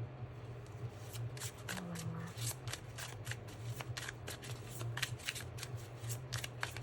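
A tarot deck being shuffled by hand: a quick, irregular run of soft card flicks and slaps starting about a second in, over a steady low hum.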